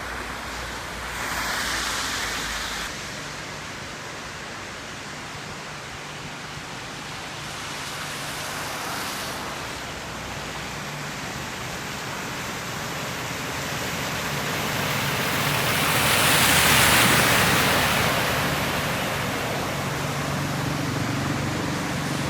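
Steady rushing noise of heavy rain and running water from a downpour. It swells briefly about two seconds in and more strongly around seventeen seconds in.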